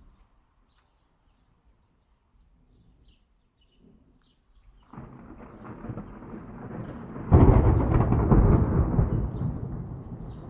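Faint bird chirps, then about five seconds in a thunder rumble sets in suddenly, jumps to a loud peak a couple of seconds later and slowly rolls away.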